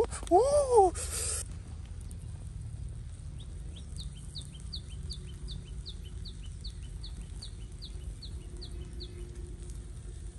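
A bird calling a regular series of short, high, down-slurred chirps, about three a second for some five seconds, starting about four seconds in, over a low steady rumble. At the very start a louder wailing, rising-and-falling call ends.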